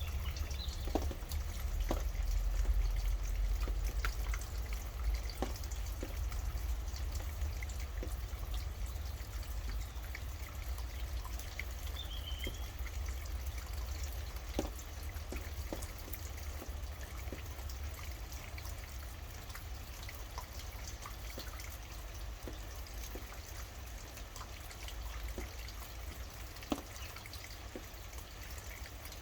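Rain dripping: scattered individual drops falling irregularly, over a steady low rumble, with one brief high bird chirp about twelve seconds in.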